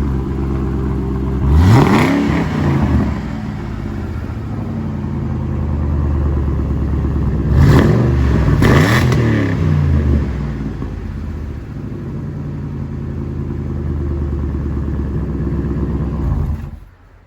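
32-valve 4.6 modular V8 idling through Stainless Works chambered mufflers. It is blipped once about two seconds in and twice in quick succession around eight seconds, each rev rising and falling back to idle. The sound cuts off just before the end.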